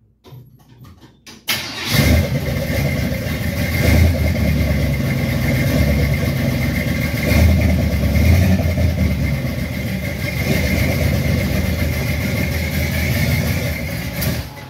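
The 1951 Chevrolet pickup's engine is cranked and catches about two seconds in, then runs with a steady high whine over it and small rises and falls in level.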